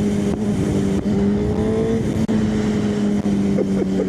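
Motorcycle engine running at a steady high speed while riding, its pitch holding almost level with a slight rise and fall, over a constant rush of road and wind noise.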